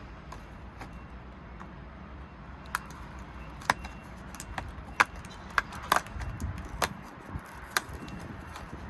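Hands handling crinkly packaging and small plastic pieces: sharp clicks and crackles that start about three seconds in and come several times a second, over a low hum.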